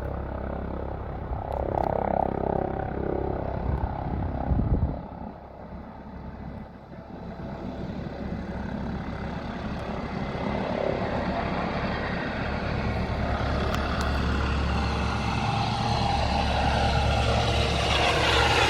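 Aircraft engine noise at an airport. A loud rushing sound cuts off suddenly about five seconds in, then engine noise builds steadily louder as an aircraft draws closer.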